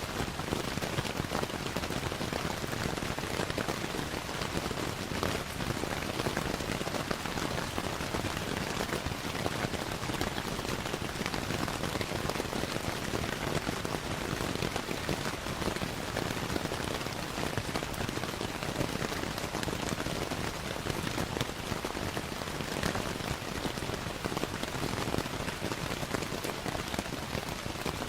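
Steady rainfall mixed with a crackling fireplace fire: an even hiss of rain with many small, scattered crackles and ticks running through it.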